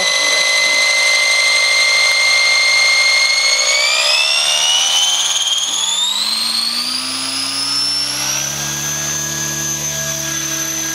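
Electric T-Rex 600 RC helicopter spooling up: the brushless drive gives a high whine that holds steady for a few seconds, then climbs sharply in pitch. A lower rotor hum comes in, rises, and settles to a steady pitch as the helicopter lifts off.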